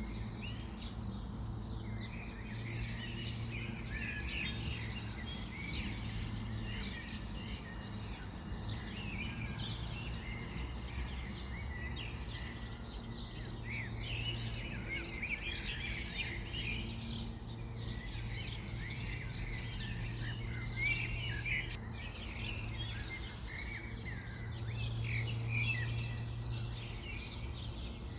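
Several songbirds chirping and singing, a busy overlapping chorus of short calls and trills, over a steady low hum.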